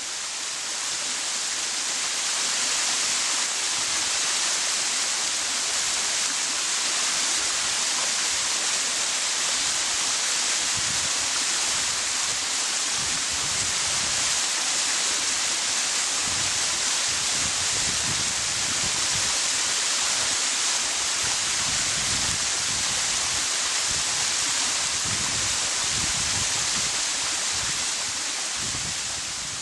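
Waterfall: the steady, full rush of falling water, strongest in the high hiss. It fades up at the start and fades down near the end.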